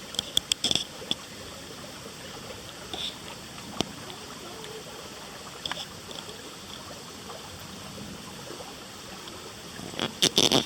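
Steady rushing of running water with short clicks and knocks of the camera being handled: a few in the first second, two lone ones in the middle, and a louder cluster near the end.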